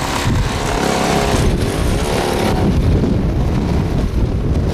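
Snowblower engine running steadily, with a heavy rumble in the low end.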